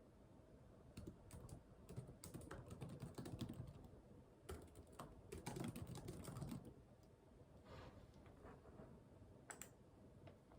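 Faint typing on a computer keyboard, with quick runs of key clicks for most of the first seven seconds, then a single click near the end.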